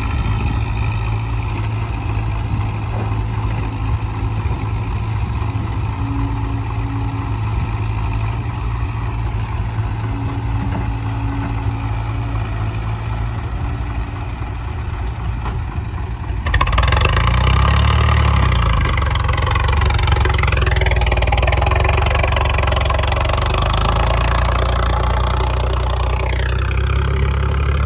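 Diesel engine running steadily. About two-thirds of the way through the sound jumps abruptly to a louder engine whose pitch rises and falls twice as it is revved.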